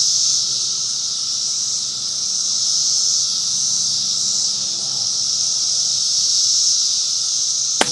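Steady high insect chorus, with a single suppressed shot near the end from a .22 LR Ruger Precision Rimfire fitted with a Silencer Central Banish 30 suppressor and firing 38-grain subsonic rounds: a short, sharp crack.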